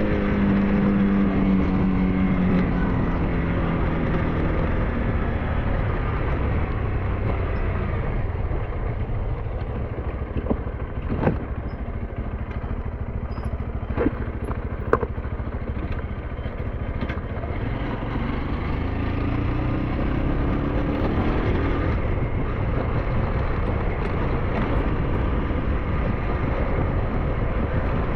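SYM NH T 200 motorcycle engine running under way, its note dropping as the rider eases off over the first few seconds, then rising again as he accelerates a few seconds past the middle. Over a steady rumble, a few sharp knocks come near the middle.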